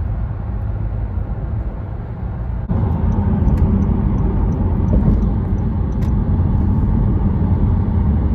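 Steady road and engine noise inside a moving car, a low rumble that gets suddenly louder a little under three seconds in.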